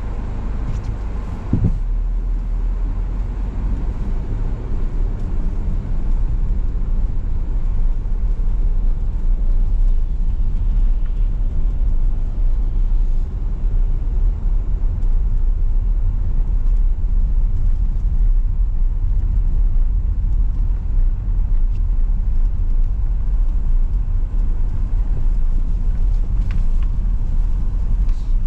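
Steady low rumble of a car driving: engine and tyre road noise, with a brief thump about a second and a half in.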